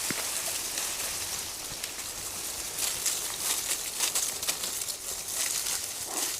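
Giant panda handling and chewing stiff frozen bamboo leaves: an uneven crackling and rustling of leaves, with many short crisp crunches.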